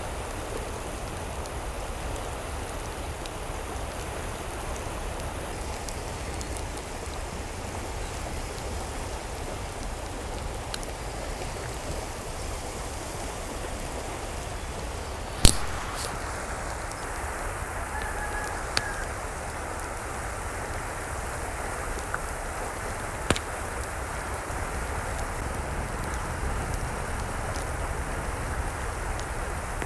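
Steady hiss of water, like rain or running water. A single sharp knock comes about halfway through, and a few fainter clicks follow later.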